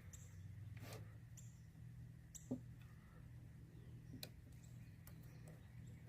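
Near silence over a low steady hum, with a few faint scattered clicks and taps of small plastic parts being handled as an evap purge valve is fitted back in place.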